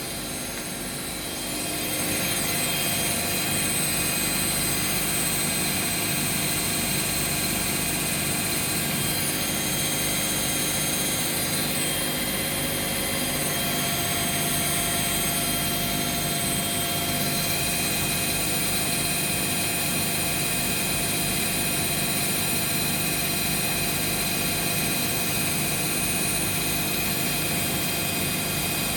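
Bosch and Hoover washing machines in their final spin, drums at high speed with a steady motor whine and drum rumble. The sound is a little quieter for the first two seconds, then holds steady; a new higher tone joins partway through.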